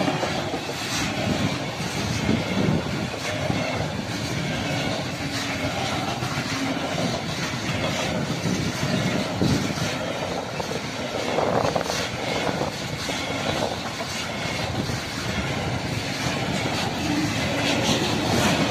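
Freight train wagons, flat wagons loaded with logs and then an open wagon, rolling past close by with wheels clattering on the rails in a steady run.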